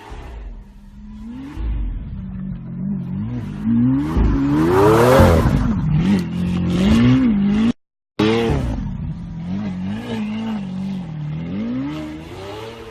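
Car engine revving up and down repeatedly, its pitch climbing and falling several times and loudest in the middle. It cuts out abruptly for a moment, then revs again, settling lower toward the end.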